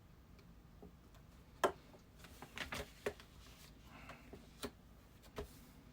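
A few faint, irregular clicks and knocks in a quiet room, the sharpest about a second and a half in.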